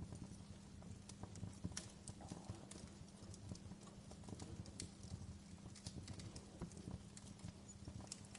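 Wood campfire crackling: irregular small snaps and pops, several a second, over a low steady rumble of the burning fire.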